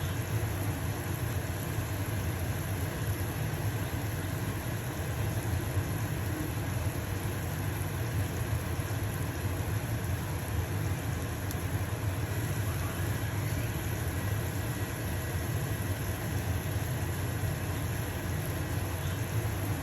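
Stove-top range hood fan running with a steady low hum, with a pancake sizzling in a frying pan underneath.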